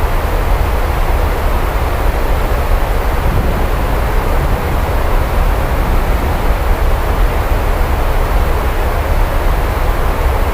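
Steady heavy rain: a dense, even hiss with a constant deep rumble underneath.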